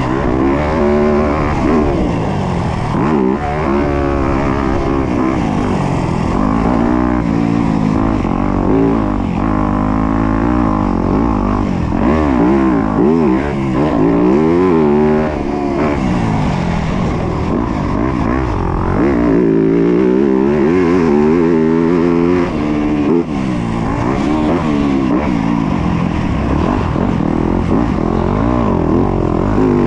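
Yamaha YZ250F's single-cylinder four-stroke engine being ridden hard in a motocross race, its pitch climbing and dropping over and over every second or two as the throttle is opened and rolled off.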